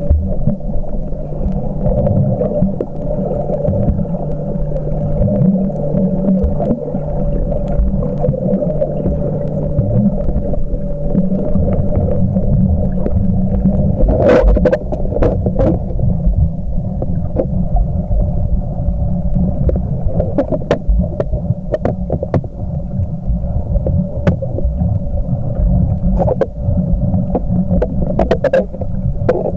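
Underwater sound recorded by a camcorder in a waterproof housing while snorkelling: a muffled, steady low rumble with a constant hum, broken by a cluster of sharp clicks about halfway through and again near the end.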